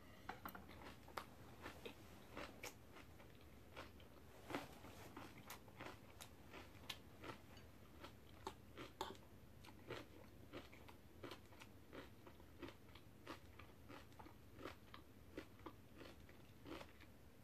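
Close-miked eating sounds: chewing and soft mouth clicks and smacks from eating red bean porridge and kimchi, with a metal spoon scraping and tapping in a glass bowl. Irregular soft clicks, a few a second, the sharpest about four and a half seconds in.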